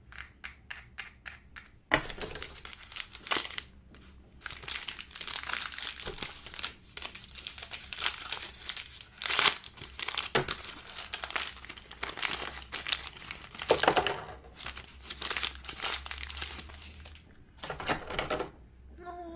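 Crinkly plastic packaging of an LOL Surprise doll being crumpled and torn open, in dense uneven bursts. A run of quick light clicks comes first.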